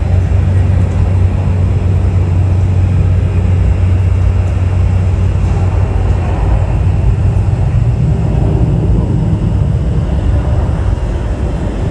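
Jet airliner engines giving a loud, steady rumble, with no clear rise or fall.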